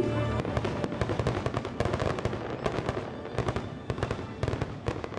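Fireworks bursting and crackling: a dense run of sharp pops, many to the second, with the show's music still sounding underneath near the start.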